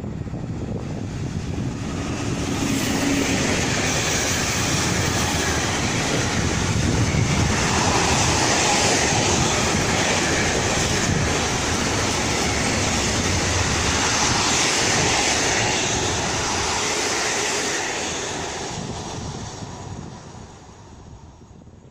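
Freight train of tank wagons passing: the locomotive, then a long string of wagons rolling by with steady wheel-on-rail noise. It builds about two seconds in and fades away near the end.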